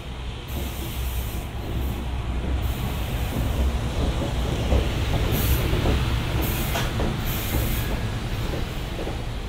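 Train running past on the rails: a steady low rumble that swells toward the middle and then eases slightly, with a few short high hisses.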